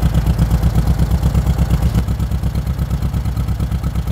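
VW Käfer 1303's 1300 cc air-cooled four-cylinder boxer engine idling with a regular, pulsing throb of about seven beats a second, dipping slightly about two seconds in. It is misfiring and running on only one side: the right-hand cylinders aren't firing.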